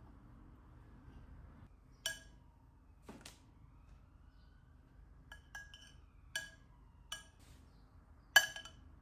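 Glassware clinking in kitchen work: about six short, ringing clinks, the loudest near the end, with a duller knock about three seconds in.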